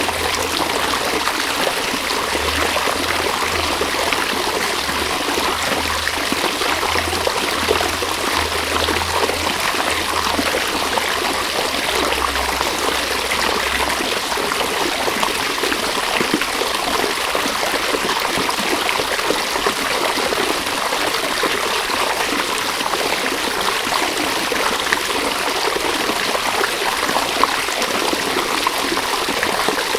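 River water flowing, a steady rushing that does not change.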